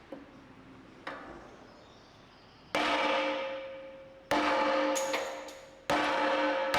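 Hammer blows on a steel part: a light tap about a second in, then four hard strikes about a second and a half apart. The metal rings on after each hit.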